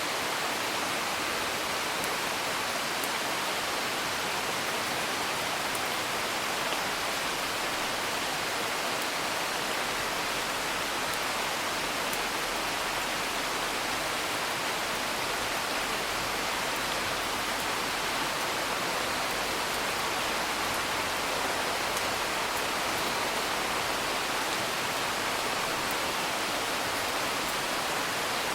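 Steady rain hiss with faint, scattered crackles of a wood fire.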